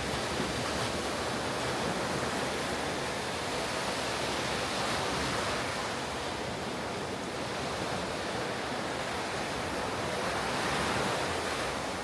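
Ocean surf washing onto a beach: a continuous rushing wash of breaking waves that swells and eases, loudest about five seconds in and again near the end.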